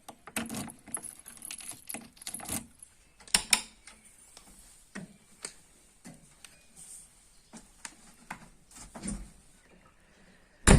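Irregular small clicks, knocks and light rattles with quiet gaps between them, with a sharper knock about three and a half seconds in and a louder one near the end.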